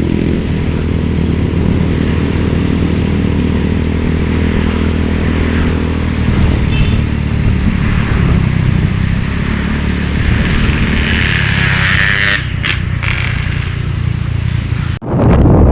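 Motorcycle engine running steadily while riding, with road noise around it. The sound drops out briefly near the end, then comes back loud.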